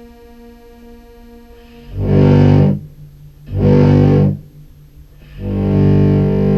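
Contrabass clarinet played through fuzz pedals and a synth pedal in parallel: a quieter held tone, then three loud, distorted low notes, two short ones about two seconds in and a longer one starting about five and a half seconds in.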